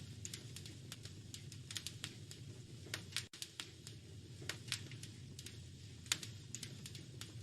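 Wood fire crackling, with irregular sharp pops and snaps over a steady low rumble, and a brief break in the sound about three seconds in.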